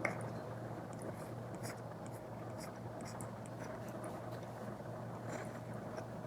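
Stylus tip tapping and making short scratchy strokes on a tablet screen fitted with a paper-like screen protector, with a click right at the start. Underneath runs a steady low hum and hiss.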